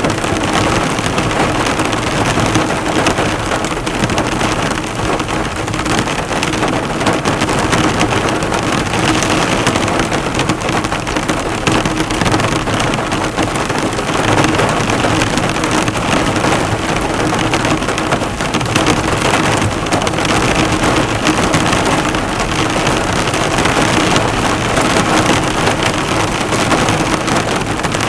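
Heavy rain falling on a car, drops bouncing off the hood in a dense, steady patter, heard from inside the car.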